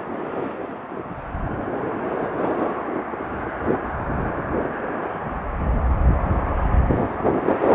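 Airplane engine noise, with gusts of wind buffeting the microphone; the heaviest gust comes about five seconds in.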